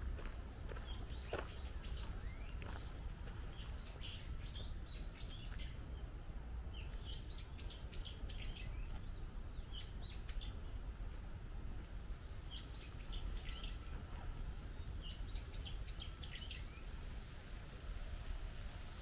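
Birds chirping in short runs of quick high notes, one run every couple of seconds, over a steady low background rumble.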